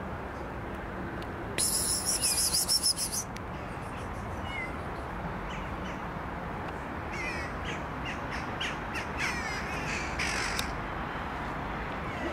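Birds calling: a loud, fast rattling call lasting about a second and a half near the start, then a run of short harsh calls with gliding pitch in the second half.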